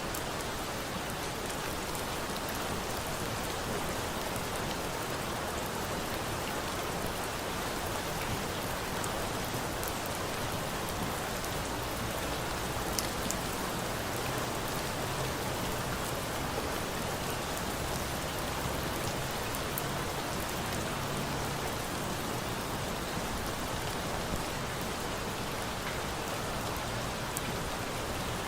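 Steady rain falling: an even hiss with a few sharp ticks standing out here and there.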